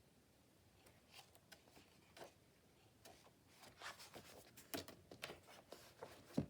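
Paper pieces being handled on a work table: faint scattered rustles and light clicks, busier in the second half, with a sharper tap just before the end.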